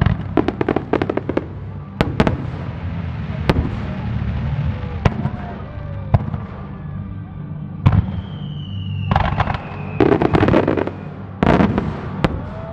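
Fireworks starmine barrage: repeated sharp bangs of shells bursting, with dense flurries of crackling near the start and in the last few seconds. About eight seconds in, a whistling shell sounds a slowly falling tone. A low rumble runs underneath.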